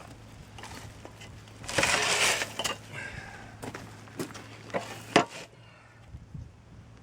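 Steel excavator attachment parts being shifted and knocked together by hand: a scraping rush of about a second, then several sharp metal clinks and knocks, the loudest about five seconds in.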